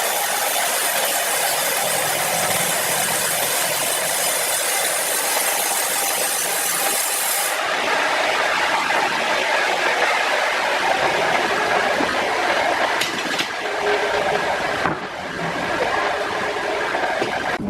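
Sawmill saw running through timber, a steady loud mechanical noise with a hiss. The hiss thins out about seven and a half seconds in, and a couple of short knocks come near the end.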